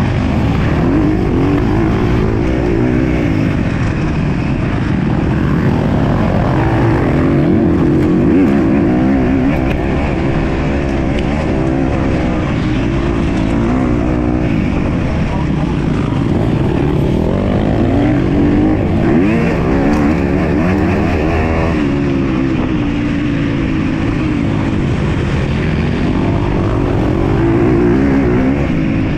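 MX2 motocross bike engine revving hard, its pitch climbing and dropping again and again as the throttle is worked and gears change.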